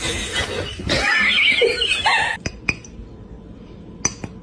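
A cat's cry over a loud, noisy scuffle that lasts about two seconds, then a few sharp clicks.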